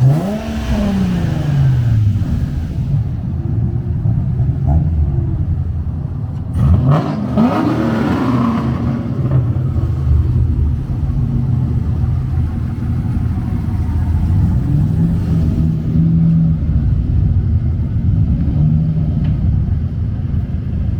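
A car engine revved twice, its pitch climbing and falling at the start and again about seven seconds in, then running on steadily.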